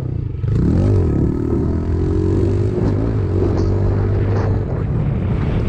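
Dirt bike engine revving up and dropping back about half a second in, like a gear change, then running at a fairly steady pitch.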